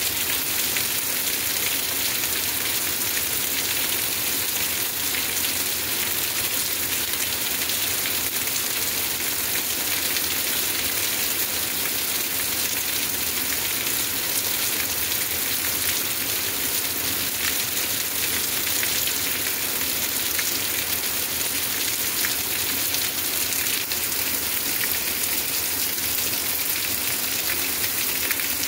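Heavy rain pouring steadily onto trees, a waterlogged lawn and a street: an even hiss that holds without letup.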